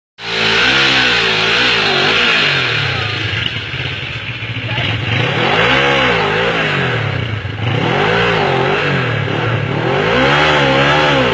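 Motorcycle engine revved hard and let fall again and again, its pitch rising and dropping in waves, over a steady hiss.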